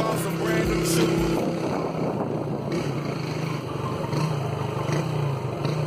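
Yamaha Factor motorcycle engine running at a steady speed while riding, its pitch wavering slightly.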